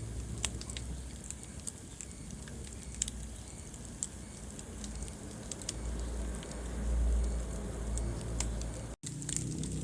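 Wood fire burning in a fireplace: a steady low rumble of flames with scattered sharp crackles and pops. The sound drops out for an instant near the end.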